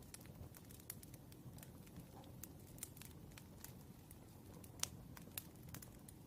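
Wood fire crackling faintly: scattered small pops and snaps over a low rumble, with two sharper pops a little before the end.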